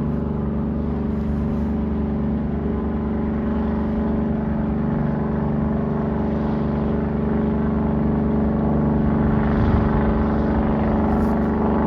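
Tugboat's diesel engine running with a steady, even drone while pushing a barge, getting a little louder near the end.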